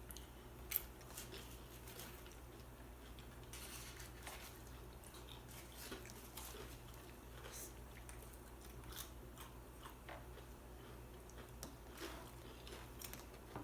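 Faint chewing and crunching of chips with salsa: scattered soft crunches and mouth clicks, with one sharper click just under a second in.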